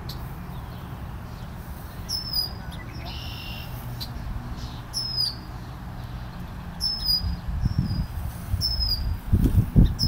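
A bird in the tree overhead repeats a short, high call that slides down in pitch, about every two to three seconds. These are the calls of the angry bird said to be attacking. Under them is a steady low rumble, with heavier low thumps on the microphone in the last few seconds.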